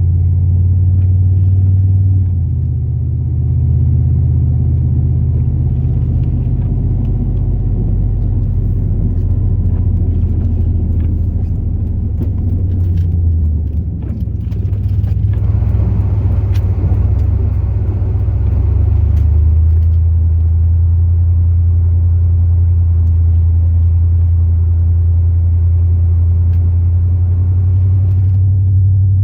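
The 8.1-litre big-block V8 of a Chevrolet Silverado plow truck running in a steady low drone while driving. Its note shifts a few times, and a rougher rushing noise joins for several seconds just past the middle.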